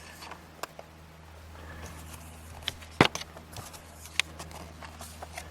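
Handling of paper car brochures: a few light taps and rustles with one sharp knock about three seconds in, over a steady low hum.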